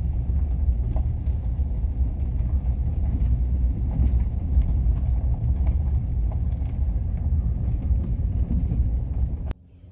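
A steady low rumble, loud and dense at the bottom end, with faint clicks over it, cutting off suddenly near the end.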